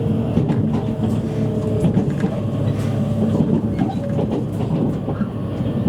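Running noise inside a JR East E653 series electric train's motor car: a steady rumble of wheels on rail with faint held tones and occasional light clicks of the track joints.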